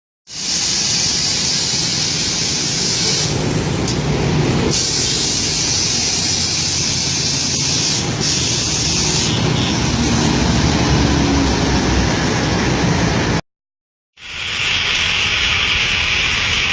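Scania K360 bus's air suspension hissing steadily over the low rumble of the running engine, as the suspension is tested. The sound breaks off about thirteen seconds in and, after a short silence, a similar steady hiss returns.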